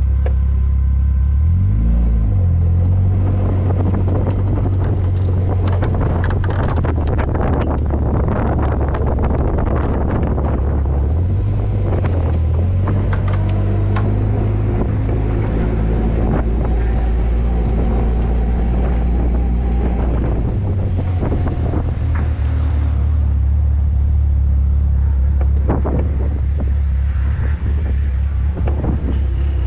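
Caterham 620R's supercharged four-cylinder engine running steadily at low revs as the car rolls along slowly, with short rises in revs about two seconds in, near the middle, and about two-thirds of the way through.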